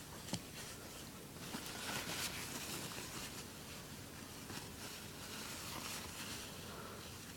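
Faint rustling and soft squishy noises of a congested child's nose being cleaned out, with a small click near the start.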